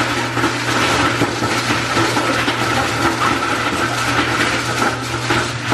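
Kitchen sink garbage disposal switched on and running: a steady motor hum with rattling and churning as it grinds leftover eggs.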